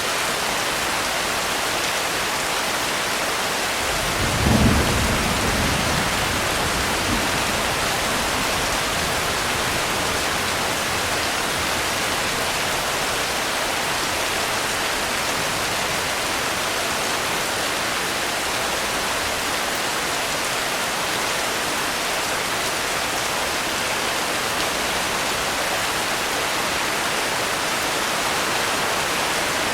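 Steady heavy rain falling, with one low rumble of thunder about four seconds in that fades away over a few seconds.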